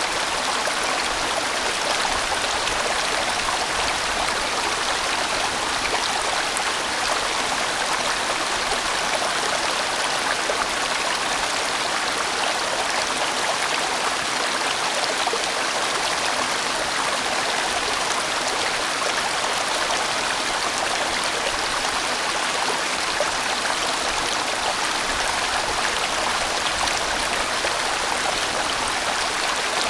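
A large mountain stream rushing and tumbling over rocks in a steady, full rush of water, without pause or change.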